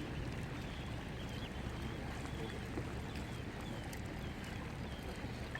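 Steady low rumble of a car driving on the road, heard from inside the cabin, with faint short high chirps over it.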